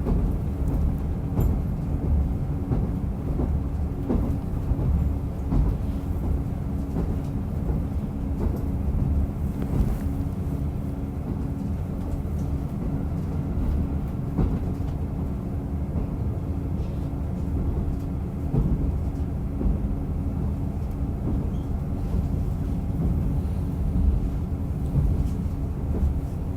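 Running sound of a diesel railcar on the Rumoi Main Line, heard on board: a steady low engine and running drone with a faint held tone, broken by scattered clicks from the wheels on the rail.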